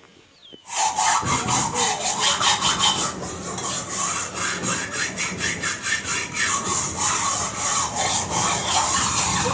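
Rapid repeated scraping or rubbing strokes, several a second, starting abruptly under a second in and going on steadily.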